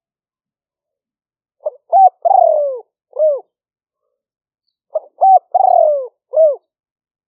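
Spotted dove cooing: two phrases about three seconds apart, each a few short coos around a longer falling coo, with the background noise removed between calls.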